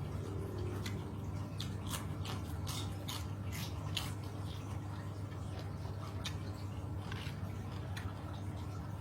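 A person biting and chewing chicken feet with spicy papaya salad: wet, squishy mouth sounds broken by many short crunchy clicks, over a steady low hum.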